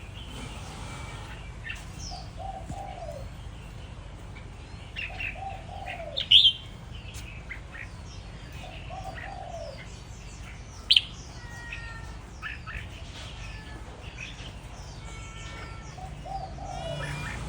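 Red-whiskered bulbul singing: a run of short chirping and whistled phrases, with two loud sharp notes, about six and eleven seconds in.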